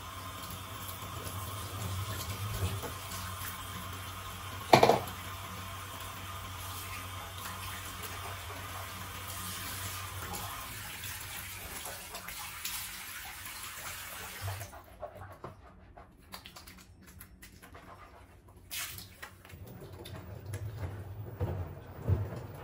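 Water running steadily, then stopping about two-thirds of the way through, followed by a few small clicks and knocks. A single loud clunk about five seconds in.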